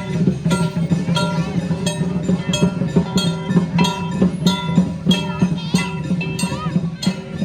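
Lion and dragon dance percussion playing: a drum with ringing cymbal and gong strikes, about two a second.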